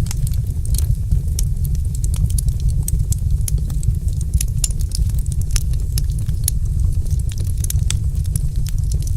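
Wood fire burning in a fireplace, crackling with many quick sharp pops over a steady low rumble.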